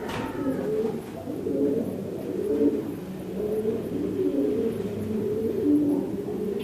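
Several pigeons cooing continuously, their low coos overlapping one another.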